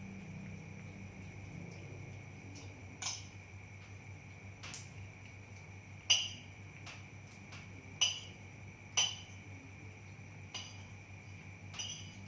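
Sharp clinks of a dish or bowl being knocked, about seven irregular strikes with a short ring, the loudest about halfway in. Crickets chirp steadily underneath.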